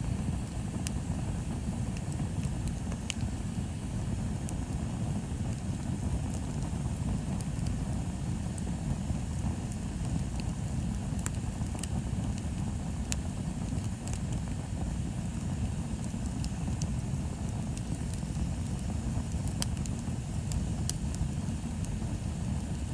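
Bonfire burning: a steady low rumble with scattered sharp crackles and pops from the burning wood.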